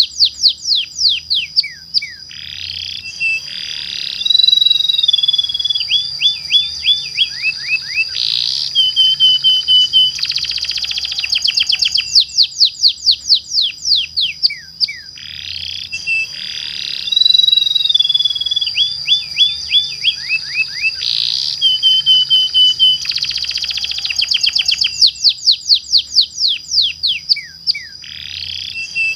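Domestic canary singing long rolling trills mixed with sweeping and held whistled notes. The same run of phrases repeats about every twelve seconds, as a looped lure recording.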